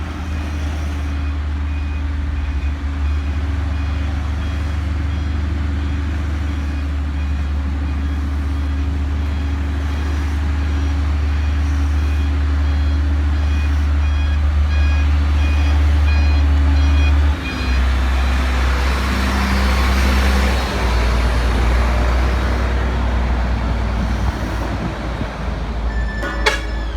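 Heavy diesel engine of a construction vehicle running close by, with a reversing alarm beeping steadily over it for the first two-thirds. The engine note changes about two-thirds in, and there is a sharp click near the end.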